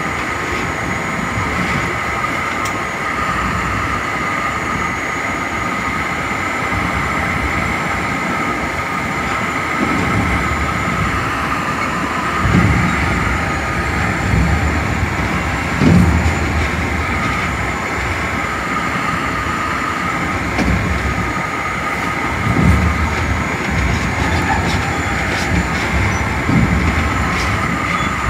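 Metra commuter train running at speed, heard from the leading bi-level cab car: a steady rolling rumble with a high, steady whine over it, and several short low thuds from about ten seconds in.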